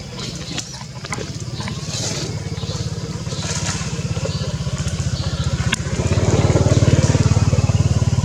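A small engine running with a steady low pulsing beat, growing louder about six seconds in.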